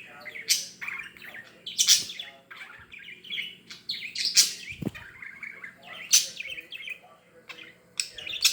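Budgerigar chattering and warbling continuously, broken by loud sharp clicks every second or two.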